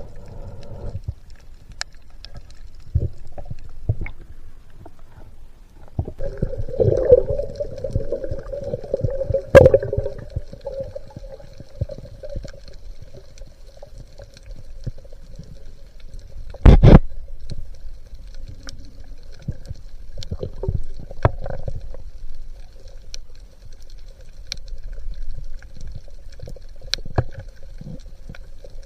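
Underwater ambience with a steady low hum and scattered clicks and knocks, including one loud sharp knock about two-thirds of the way through.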